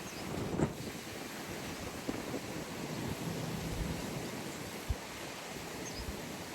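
Outdoor ambience with steady wind rushing on the microphone, with a dull thump about half a second in and a short knock near the five-second mark.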